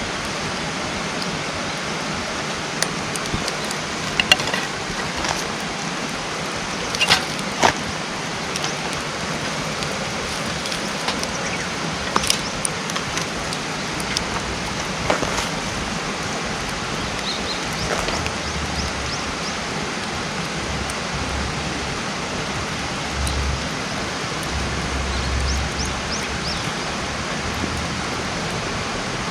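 Wood campfire burning with a steady hiss and scattered sharp crackles and pops, the loudest about 4, 7 and 12 seconds in. Low rumbles come and go in the second half.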